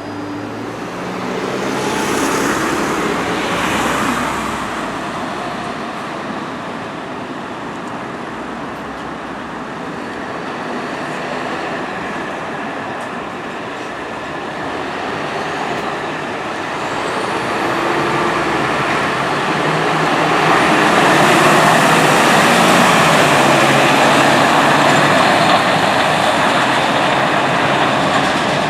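Scania turntable ladder fire truck running and pulling away, a steady heavy engine and road noise that swells briefly early on and grows louder from about two-thirds of the way through.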